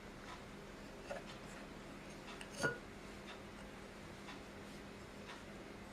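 A few faint, short knocks and clinks as small pots and lids are handled and set one on another, the clearest about two and a half seconds in.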